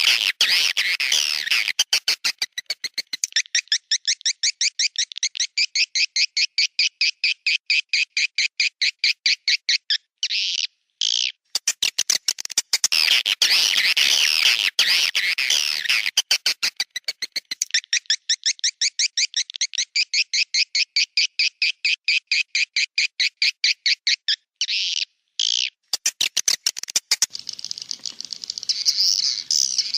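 Swiftlet roosting-call lure recording: steady trains of rapid chirping clicks, about five a second. Denser twittering from many birds comes twice, in the middle and near the end.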